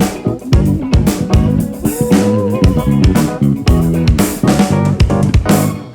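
Live band playing an instrumental passage: guitar over bass guitar and a drum kit keeping a steady beat.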